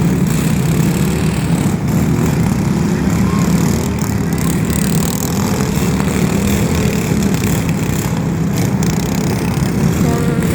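A loud engine running steadily without a break.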